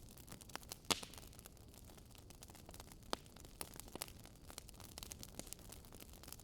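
Wood fire crackling: irregular small pops and snaps over a low hiss, with a sharper pop about a second in and another around three seconds.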